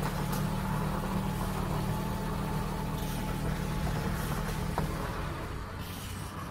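Diesel car engine idling steadily, a low even hum that eases slightly near the end.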